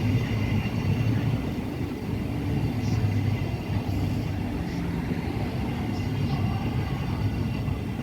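Train running at a station: a steady low rumble with faint higher tones over it.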